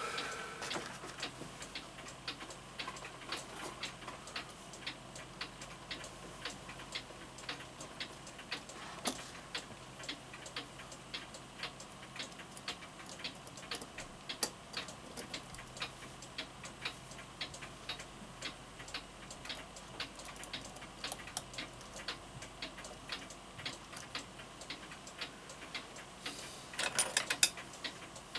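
Antique Florenz Kroeber mantel clock movement ticking steadily, its escapement beating evenly. Near the end comes a short burst of louder, rapid clicks.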